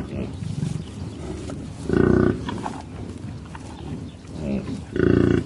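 Buffalo calling with short, low moos or grunts, three times, over a steady background hiss.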